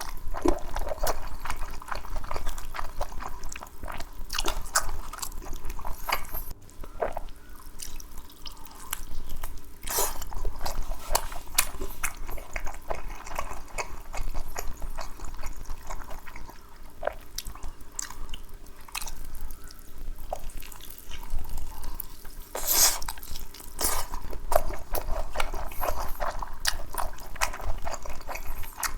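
Close-miked eating: a continuous run of small, wet clicking chewing and biting sounds, with a louder bite about two-thirds of the way through.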